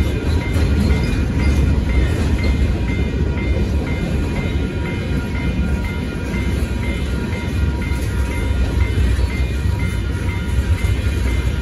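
Freight cars of a Union Pacific manifest train rolling through a crossing with a steady low rumble, while the crossing's warning bell dings rapidly and evenly.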